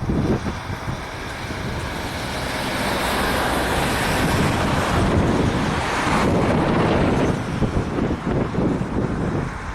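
Boeing C-17A Globemaster III's four turbofan engines on take-off, the jet noise swelling to a peak in the middle and then fading with a slight drop in pitch as the aircraft passes. Wind buffets the microphone throughout.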